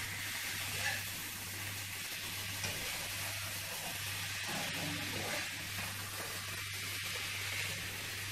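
Chopped vegetables sizzling steadily in hot oil in a pan on a gas stove while being stirred with a spatula.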